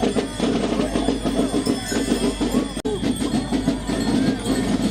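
Crowd of many people talking at once, a continuous dense chatter of voices, with a brief dropout near the middle.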